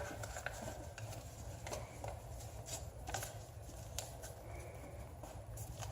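Faint rustles and light clicks of a paper airplane being handled as its folded wing flaps are pressed flat, over a low steady hum.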